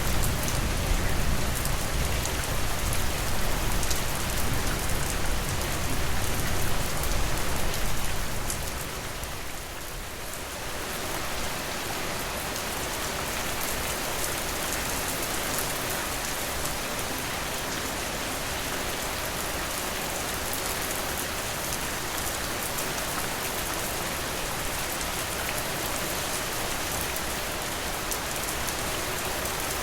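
Steady rainfall, a dense even hiss. For about the first eight seconds it is louder with a low rumble underneath, then it eases to a slightly quieter, steady rain.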